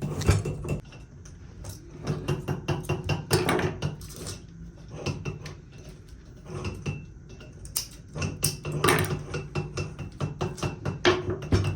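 Metal parts clinking and knocking in irregular clusters, like hand work with tools on metal, over a low steady hum.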